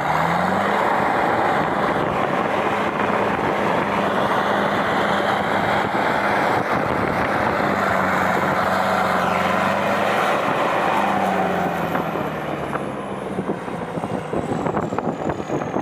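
Tractor engine running steadily under way, its drone rising in pitch at the start and then holding. About three-quarters of the way through it gets quieter and more uneven.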